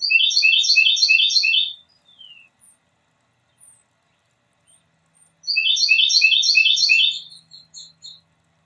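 A songbird singing two bouts of a loud song, each a short phrase of several high notes repeated about five times in quick succession, the second bout starting about five seconds after the first.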